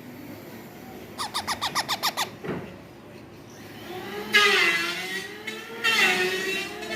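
Baby parrot calling: a quick chattering run of about ten clicking notes, then two longer, wavering, pitched calls in the second half.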